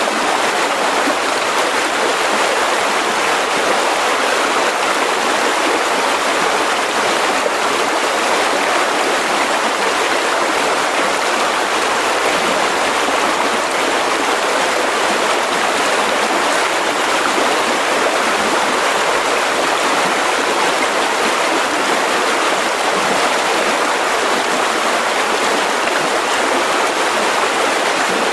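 Mountain river rushing steadily over rocks, a continuous, even rush of water.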